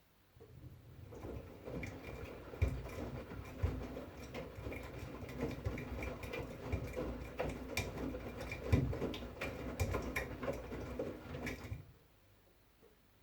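V-Zug Unimatic SL washing machine turning its drum in the wash phase: motor hum with laundry and water tumbling and knocking inside. It lasts about eleven seconds, then stops suddenly, the usual turn-and-pause rhythm of a wash cycle.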